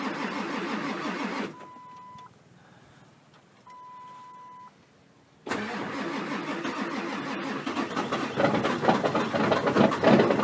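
A Ford 7.3L Powerstroke V8 diesel is cranked by its starter on a cold start at about 9 °F with no working glow plugs, the glow plug relay being bad. The rhythmic cranking stops about a second and a half in, and two short steady beeps sound in the pause. Cranking resumes about five seconds in, and from about eight seconds the engine begins firing unevenly and gets louder as it catches.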